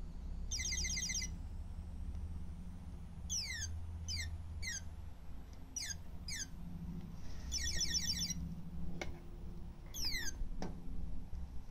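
Motion-sensing toy bird chirping: a short trill, then a run of quick downward-sweeping chirps, another trill, and more falling chirps. Two sharp clicks near the end.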